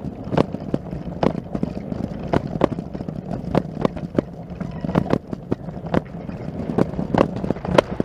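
Footsteps, about two a second and slightly uneven, over a steady low rumble.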